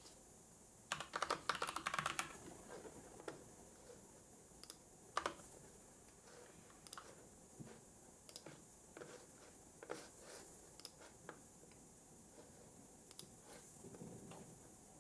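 Typing on a computer keyboard: a quick burst of keystrokes about a second in, then slower, scattered keystrokes, over a faint steady hiss.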